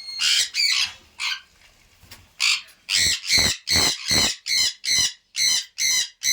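Pet parrot squawking: a few scattered harsh calls, then from about halfway through a fast run of about ten squawks, two or three a second.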